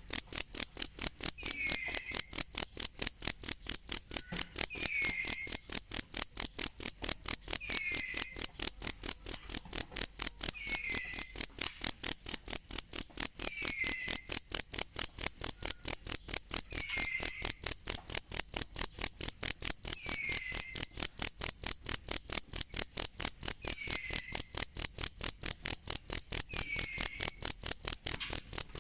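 Cricket chirping steadily: a high-pitched chirp repeated evenly about three times a second.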